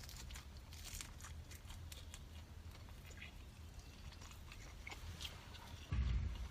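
Close-up chewing of jiang xiang bing (sauce-brushed Chinese flatbread), with soft crunches and wet mouth clicks. A dull low thump comes near the end.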